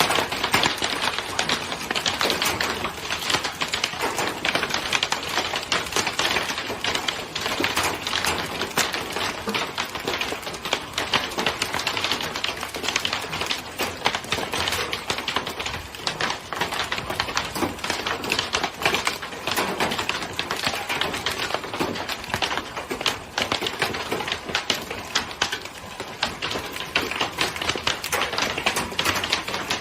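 Hailstones pelting hard surfaces in a dense, continuous clatter of sharp ticks and taps.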